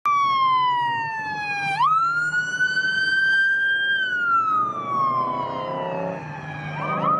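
Police car siren wailing. Its pitch falls, jumps back up about two seconds in, rises slowly, then falls slowly and starts rising again near the end, with a steady low hum underneath.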